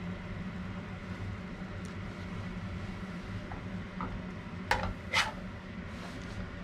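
Kitchenware clattering: two sharp knocks about half a second apart, a little past the middle, with a few lighter clicks before them, over a steady low hum.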